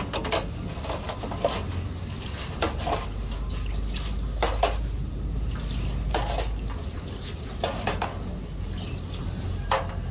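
Metal parts and hand tools clinking and knocking at irregular intervals, about one sharp clink every second or so, over a steady low hum.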